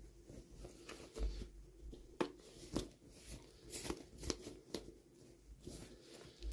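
Hands unboxing small plastic toys: crinkling and tearing of packaging with a string of sharp clicks and taps.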